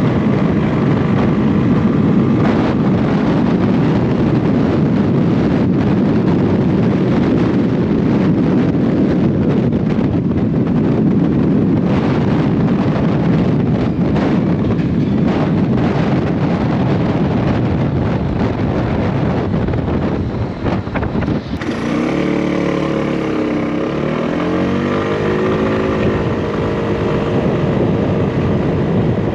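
Wind buffeting a GoPro Hero 9's microphone on a moving motorcycle at about 60–70 km/h: a loud, steady low rumble of wind noise. About three-quarters of the way through the sound changes, and the motorcycle engine is heard rising and falling in pitch for a few seconds as it revs.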